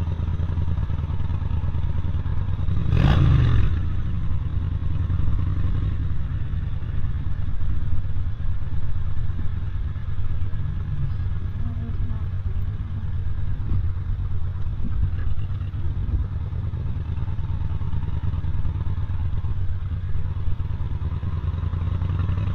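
Motorcycle running steadily with road and wind noise, a low rumble throughout. About three seconds in, a brief louder sweep of noise.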